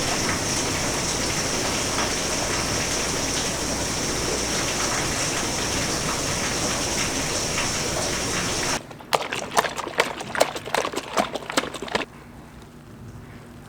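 A steady rush of falling water that cuts off abruptly about nine seconds in, followed by about three seconds of quick clicks and knocks.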